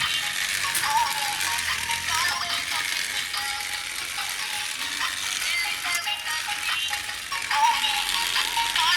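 Steady rattling and clicking of the RC crocodile toy's small plastic gear mechanism, with short squeaks.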